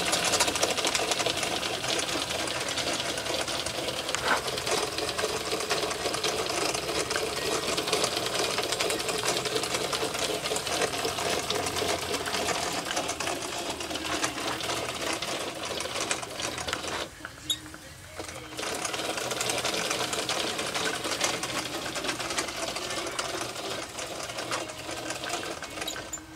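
Small gas-fired steam tram engine running on steam at very low pressure, only a couple of pounds, with a rapid, even mechanical clatter over a steady hiss of steam. About two-thirds of the way through, the sound drops away for a second or so, then picks up again.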